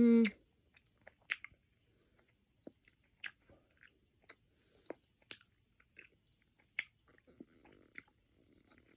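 Close-up mouth sounds of someone chewing a chewy mango-flavoured Japanese candy: scattered wet clicks and smacks, a few a second at most, some louder than others.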